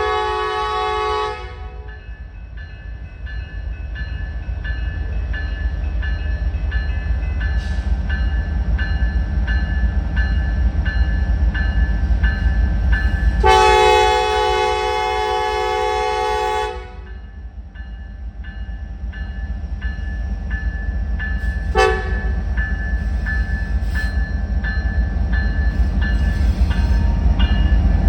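Freight train led by a Norfolk Southern SD70ACe pulling through a grade crossing, its multi-note chime horn sounding the crossing signal: a long blast ending about a second in, another long one in the middle, then a short one near the end. The diesels rumble louder as the train gets moving, under a crossing bell dinging steadily.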